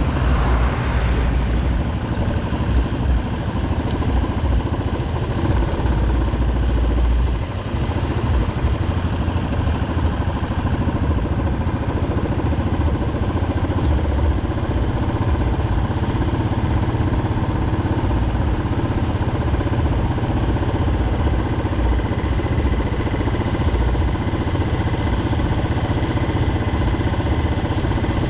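Motorcycle engine running steadily on the move, with heavy, uneven wind rumble on the microphone. There is a brief hiss in the first second or so.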